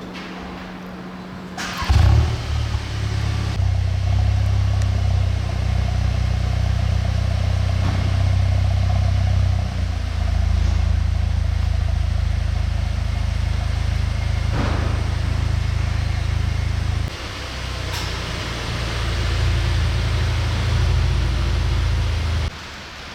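Audi S3's 2.0-litre turbocharged four-cylinder petrol engine through an Akrapovic exhaust. It comes in suddenly and loudly about two seconds in, then holds a steady low drone that dips briefly and falls away near the end.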